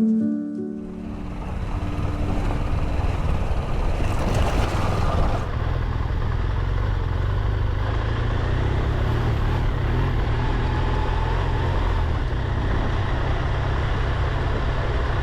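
A short bit of piano music ends in the first second or two, then a motorcycle on the move: a steady engine and road rumble with wind noise on the onboard microphone.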